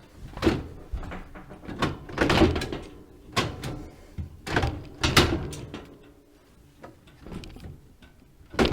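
Plastic refrigerator drawer parts knocking, clunking and scraping as a drawer is worked onto its rails, with a run of knocks in the first five seconds and a sharp knock near the end.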